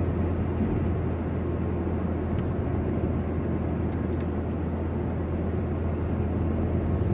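Steady road and engine noise inside a moving truck's cab: an even low rumble with a few faint clicks.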